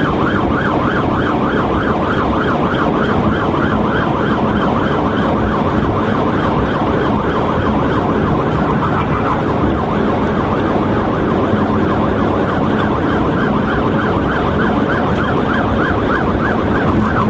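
Police car siren in fast yelp mode, its pitch sweeping up and down about two and a half times a second, over steady engine and road noise from a cruiser at highway speed.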